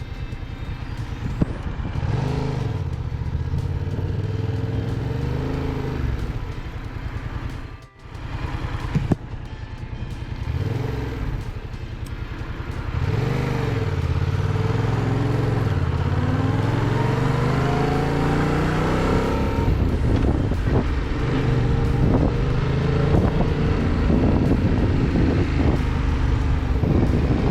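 Motorcycle engine, the Yamaha MT-07's parallel-twin, revving up and down while riding, its pitch climbing and falling again and again through gear changes. The sound briefly drops out about eight seconds in.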